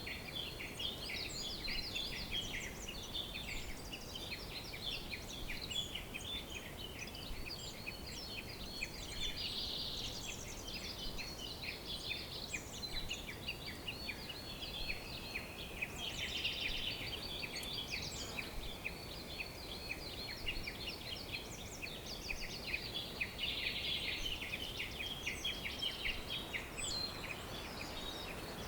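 Many birds chirping and trilling at once in a dense, continuous chorus of short high calls, over a faint steady background hiss.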